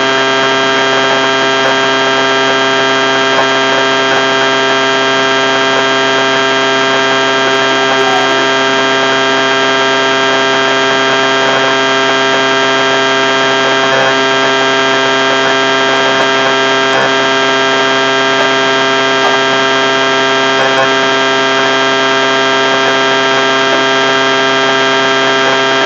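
A loud, steady hum of many fixed tones sounding together, unchanging throughout.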